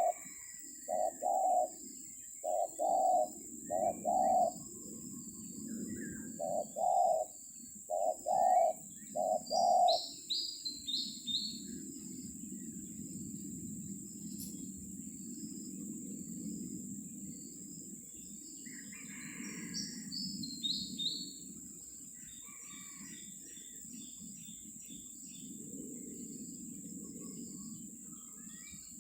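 Spotted dove cooing: low, rounded coo notes in short groups for about the first ten seconds, then it stops. Small birds chirp with quick falling notes now and then.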